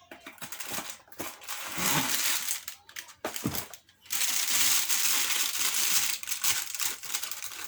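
Packaging of a microphone pop filter being opened and handled by hand. The rustling comes in short bursts, then runs steadier and louder from about halfway through.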